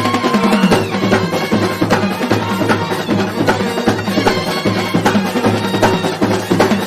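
A Kerala festival band set playing a tune: wind instruments carry the melody over fast, dense drum beats.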